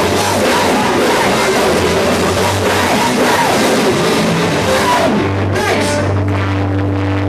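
Loud, distorted rock music with drum kit and guitar. About five seconds in, the drums and cymbals drop away, leaving held bass and guitar notes.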